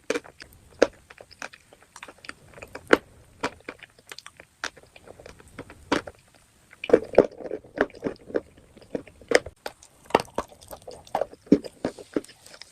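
Close-miked chewing and biting of hard chalky pieces: irregular sharp crunches, coming thicker in the second half.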